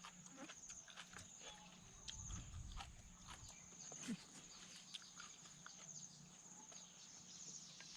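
Faint chewing and small mouth clicks of someone eating crunchy lotus stems in spicy seafood salad, over a steady high, pulsing trill.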